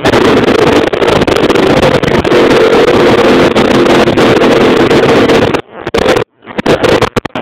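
Baja X250 Extreme dirt bike engine running loud at steady, fairly high revs after carburetor adjustments. The sound drops out briefly near the end, then comes back in uneven spurts.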